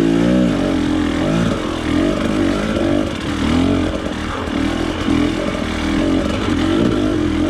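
Off-road motorcycle engine under throttle as it is ridden, revving up and falling back over and over, the pitch rising and dropping about once a second.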